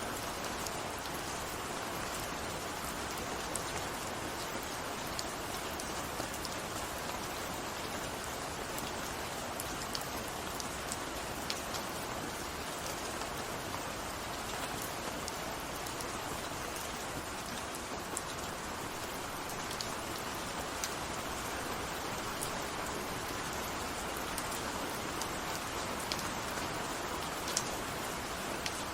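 Steady rainfall, an even hiss with scattered sharper drop ticks throughout.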